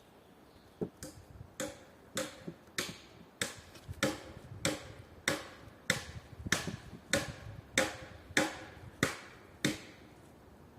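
Steady series of about fifteen hand-tool blows on wood, roughly one every 0.6 seconds, each with a short ringing note, like hammering or chopping during construction.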